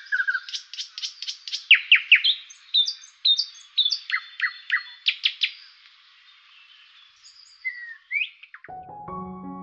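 Birds chirping: a quick run of chirps and sharp downslurred whistles that thins out after about six seconds. Near the end the birdsong stops and piano music begins.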